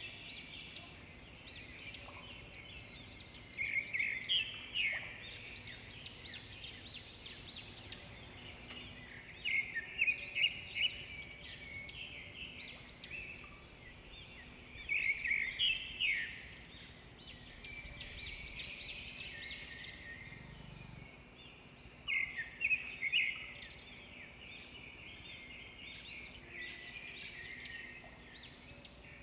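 Birds calling in bursts of quick, high chirping notes, coming every five or six seconds over a faint steady low hum.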